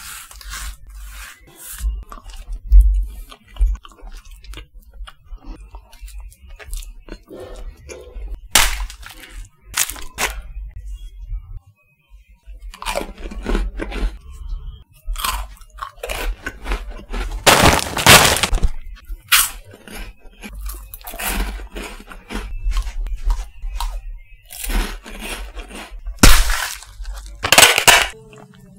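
Snack food being bitten and chewed: irregular crisp cracks and crunches, with longer, louder crunching bouts about two-thirds of the way in and near the end.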